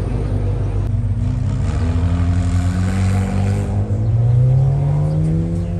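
A car engine accelerating, its pitch climbing steadily over several seconds.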